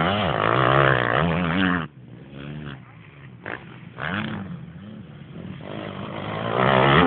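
Motocross dirt bike engines revving as they pass, their pitch swinging up and down with the throttle. One loud pass comes in the first two seconds, a short blip around four seconds in, and another bike builds up loud near the end.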